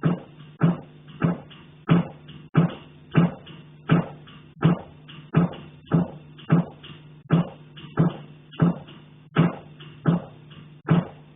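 Regular knocking on a central heating pipe, about one and a half knocks a second, each knock with a short ringing tail carried along the pipe, over a steady low hum.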